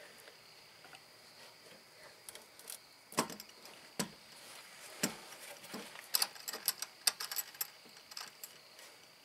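Irregular clicks and light metallic knocks from hand work on the van, a dozen or so scattered over several seconds and thickest in the second half, with a faint steady high whine underneath.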